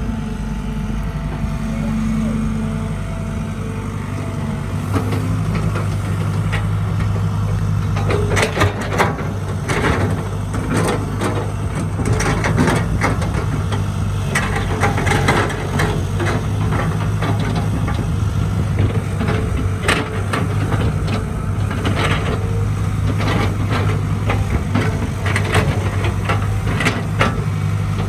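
Diesel engine of a Caterpillar 312B excavator running steadily, growing louder about five seconds in. From about eight seconds on, frequent sharp knocks and clatter sound over the engine.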